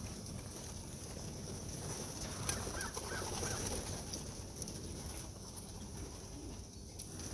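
Racing pigeons cooing and clucking.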